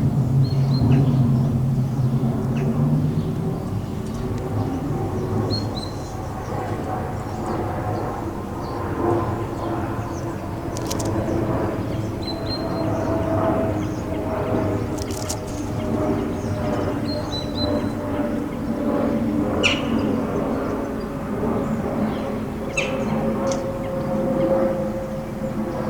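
Steady low drone of traffic, with a few short high bird chirps and several sharp clicks over it.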